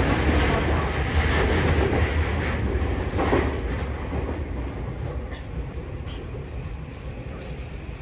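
Tokyu 3020 series electric train running on the rails and slowing, its low rumble fading steadily, with one sharp clack about three seconds in; a faint steady high tone comes in about halfway. The slowing is the train coming in to stop at a station.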